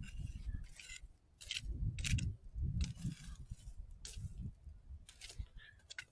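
Small stainless steel grill and firewood being handled and set in place over a campfire: irregular scrapes and clicks with low handling thumps.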